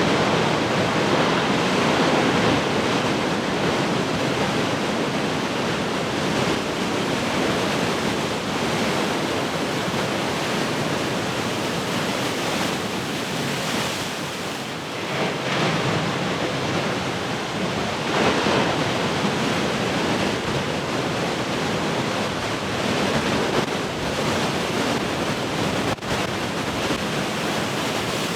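Heavy ocean surf: large waves breaking in a continuous rush of water, swelling louder a couple of times past the middle.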